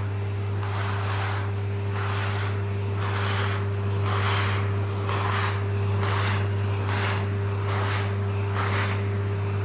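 Vacuum cleaner running steadily, its brush head being rubbed over a cat's fur in repeated strokes, with a surge of suction noise about once a second. The motor hum cuts off suddenly at the end.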